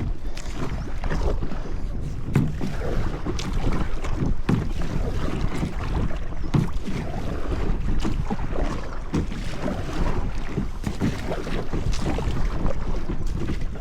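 Kayak paddle strokes dipping and splashing in the water, irregular and continuous, with wind rumbling on the microphone.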